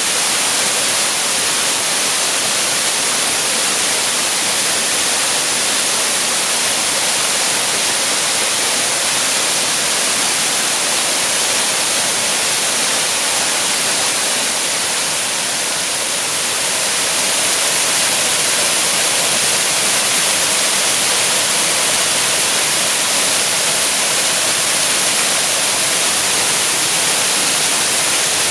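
Waterfall pouring steadily: a continuous loud hiss of falling water, strongest in the high range, dipping slightly about halfway through.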